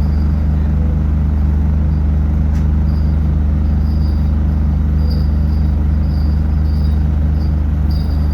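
City bus engine running steadily, a loud, even low drone, with faint high chirps coming and going above it.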